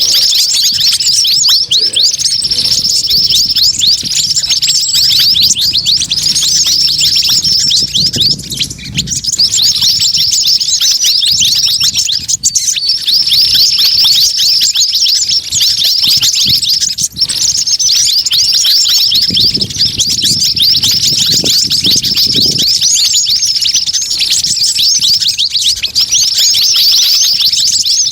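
Bird-lure recording of a noisy mixed flock of small songbirds: white-eyes (pleci), sogon and a sunbird (kolibri wulung) chirping rapidly without pause. Many quick, high, downward-sweeping chirps overlap.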